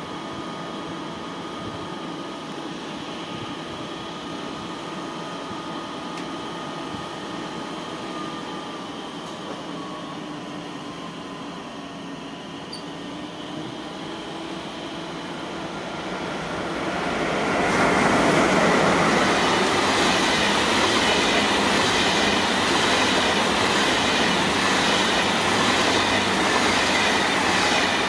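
A train approaching and passing close by: first a few steady whining tones, then, after about 17 seconds, the much louder rolling noise of wheels on the rails with some rail clatter.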